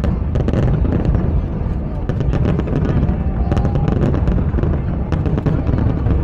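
A fireworks display going off: many sharp cracks and pops over a dense low rumble, with music playing along.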